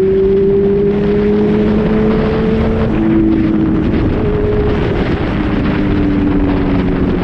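Motorcycle engine running while riding, with wind rushing over the microphone. The engine note climbs slowly for about three seconds, then drops suddenly and settles at a lower, steadier pitch.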